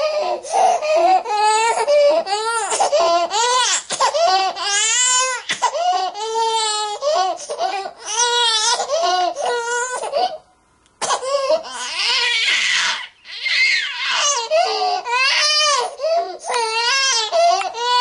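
Newborn baby crying hard: high wavering wails, one after another, with a brief break a little past halfway.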